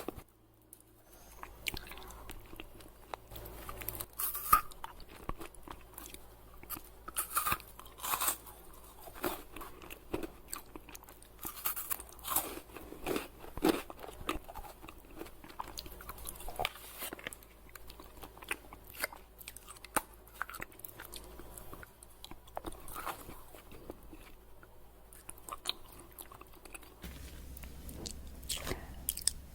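Close-up chewing and crunching of chocolate candy, a steady run of irregular sharp crunches and clicks.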